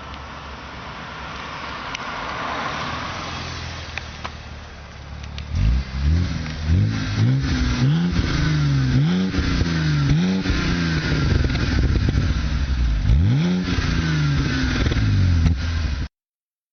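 BMW E92 325i's straight-six engine revved again and again through a custom-built exhaust, each blip of the throttle rising and falling quickly, starting about five seconds in after a rushing noise, and cutting off suddenly near the end.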